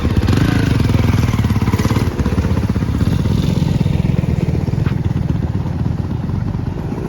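Motocross dirt bike engine running steadily, growing fainter near the end.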